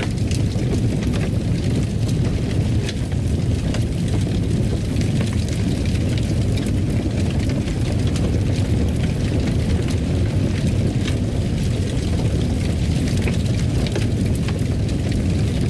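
Fireplace fire burning with a steady low rumble and frequent small, sharp crackles.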